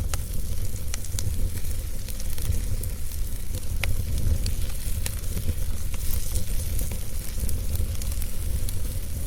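Fire crackling, with scattered sharp pops over a steady hiss and a constant low rumble underneath.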